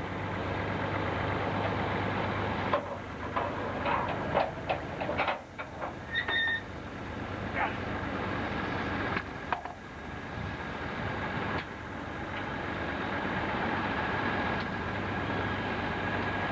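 Sawmill machinery running steadily with a low hum, with a run of knocks and clatters a few seconds in and a few more later.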